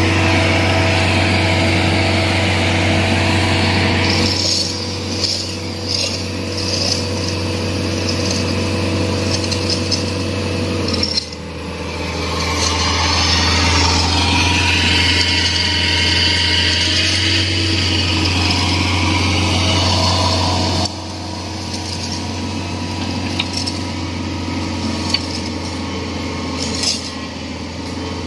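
Mini excavator's diesel engine running under continuous load, a steady low hum with a higher hiss above it. The sound shifts in pitch and level about four seconds in, again near eleven seconds, and again past twenty seconds, as the machine works.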